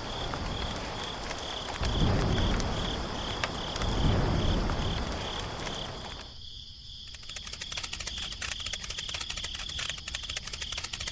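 An insect, cricket-like, chirps throughout in a steady pulsing high tone. Under it, in the first half, a low rumble swells up about every two seconds. After a brief break a little past halfway, the rumble gives way to a fast run of fine ticking.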